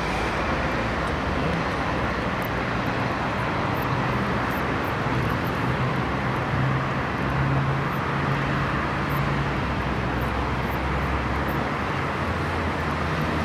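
Mini bike's small engine running steadily at an even speed.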